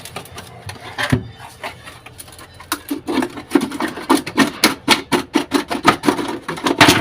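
A cake-tray mould being worked off a cement casting, unmolding it. A few scattered knocks are followed, from about three seconds in, by a run of quick crackles and knocks, about four a second.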